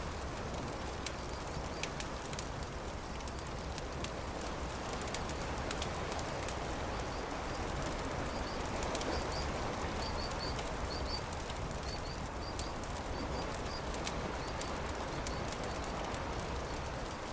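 Beach campfire crackling with scattered sharp pops over a steady wash of surf. Small high bird chirps come in quick clusters through the middle and latter part.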